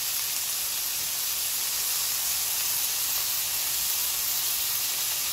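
Seaweed stems and sliced onion frying in oil in a wok, a steady sizzle.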